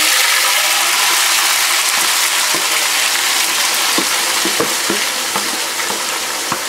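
Marinated chicken in a wet green masala paste hitting hot oil in a karahi, a loud steady sizzle of frying on high flame, with a few sharp crackles partway through.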